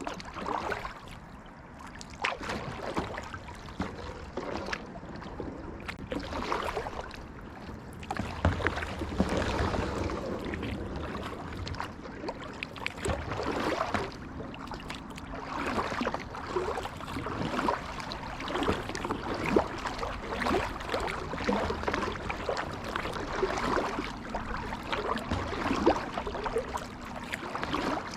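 Kayak paddle strokes dipping and splashing in the water every second or two, with water swishing and gurgling along the hull.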